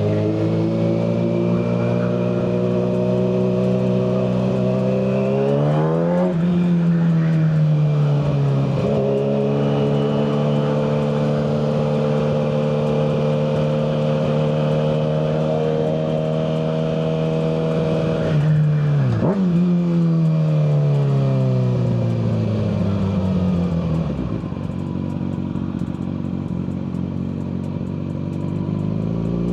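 Kawasaki ZX-6R 636 inline-four with a Yoshimura full exhaust, heard from the rider's seat while riding. The engine note holds steady at cruise, climbs and dips around six seconds in and again around nineteen seconds, then falls steadily as the bike slows, settling to a lower steady note for the last few seconds.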